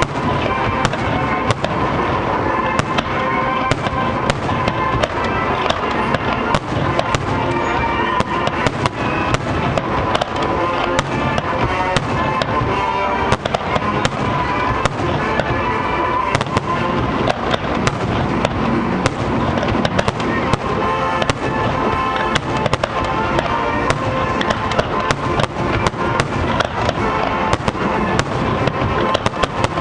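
Aerial fireworks shells launching and bursting in quick succession, a dense, continuous run of sharp bangs, with music playing underneath.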